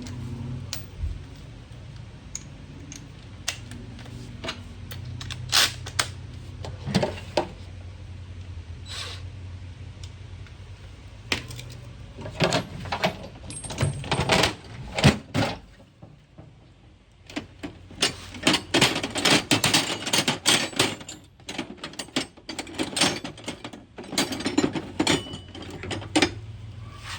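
Metal hand tools and sockets clinking and clicking against each other and the bike's parts while a mini bike is taken apart, in scattered bursts of sharp taps with a faint steady hum underneath.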